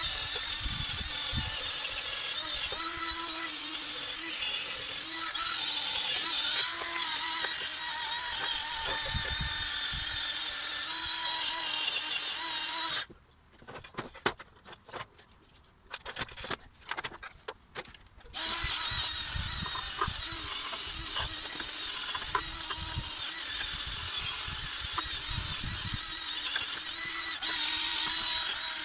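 A handheld power tool running steadily, with a slightly wavering pitch, as it works rust off the mitre saw's steel slide rails. It stops for about five seconds around the middle, when there are a few knocks, then runs again.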